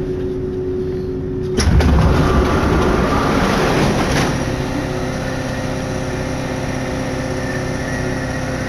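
Paris Métro line 14 MP89CA rubber-tyred metro train running, a steady hum with several held motor tones. About one and a half seconds in, a sudden loud rush of noise comes in and dies back over the next two or three seconds.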